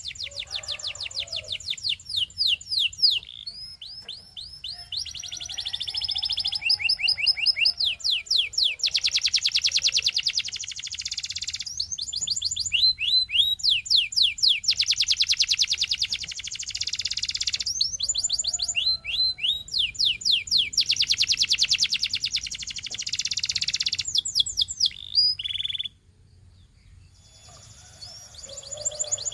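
Canary singing long, rapid trills and rolls in phrases of several seconds, with a brief pause about 26 seconds in.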